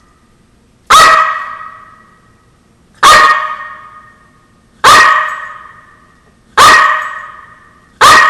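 A dog barks five single times, one roughly every two seconds. Each bark trails off in a long echo.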